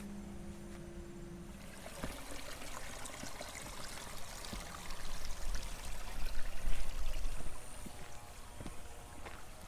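Water running and trickling in a rice-terrace irrigation channel, a steady rushing. A low hum stops about a second and a half in, and a low rumble swells for a few seconds about halfway.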